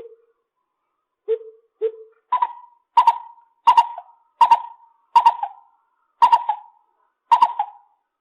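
Lesser coucal calling: a series of about ten hooting notes. The first few are low and soft; from about two seconds in they turn louder, higher and harsher, coming roughly every two-thirds of a second.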